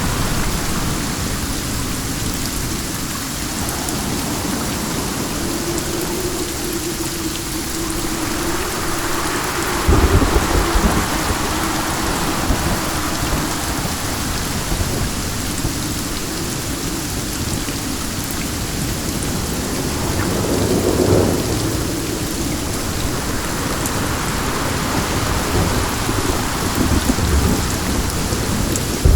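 Steady rain with wind, an even hiss across the range. A deep low rumble swells up suddenly about ten seconds in, and a smaller swell follows about twenty seconds in.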